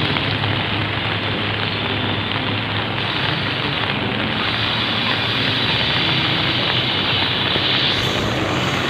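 Steady, dense rushing noise of water, heavy rain or floodwater, with a faint low hum underneath.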